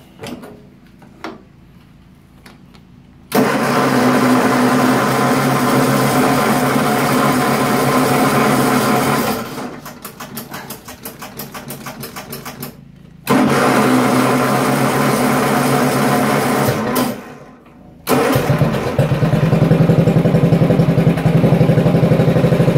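Bolens garden tractor engine being cold-started with new fuel lines and filter fitted: it is cranked in two long stretches, each cut off abruptly. About eighteen seconds in it catches and keeps running with an even, rapid beat.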